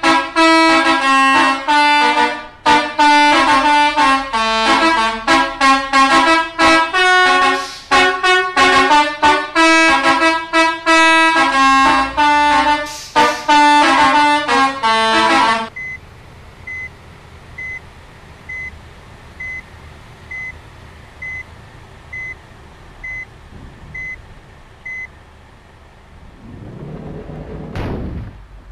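A bus telolet horn, a multi-tone air horn, plays a fast rhythmic melody of loud honked notes and stops suddenly about three quarters of the way through. After it, a short high beep repeats about once a second, and a brief louder rising sound follows near the end.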